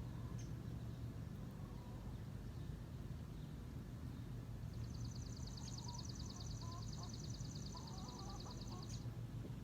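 A small songbird singing one rapid, even, high trill that starts about halfway through and lasts about four seconds, over a steady low hum.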